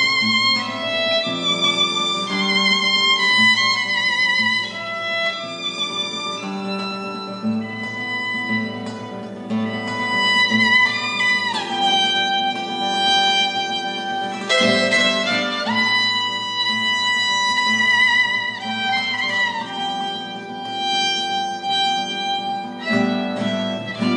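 Chamber orchestra strings playing: a violin melody with vibrato over a repeating pulse of plucked low notes. The melody slides down in pitch about halfway through and slides back up a few seconds later.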